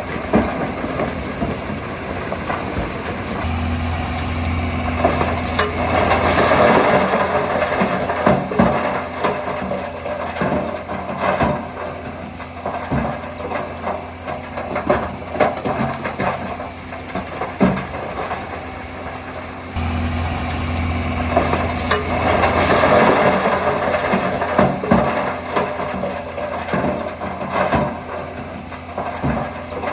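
Crawler bulldozer's diesel engine running, with many sharp knocks and clanks from the tracks and blade. The engine sound swells louder twice and then eases back.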